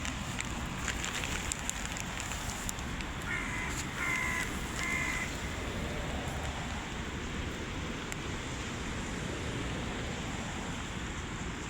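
Hooded crow cawing three times in quick succession, a few seconds in, over a steady background rush.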